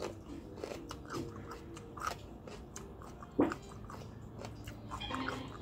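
A person chewing and biting crunchy raw shallot, with wet crackling chews and one sharp crunch about three and a half seconds in.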